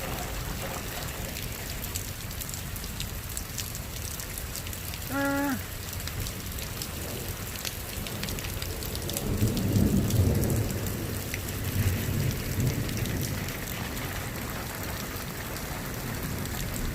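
Steady rain falling, with a low rumble of thunder swelling from about nine seconds in and fading by about thirteen. A brief pitched tone sounds once about five seconds in.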